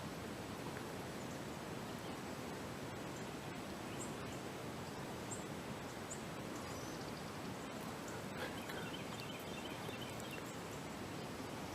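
Steady outdoor background hiss of the woods with faint, scattered high bird chirps, and a short faint run of bird notes about nine seconds in.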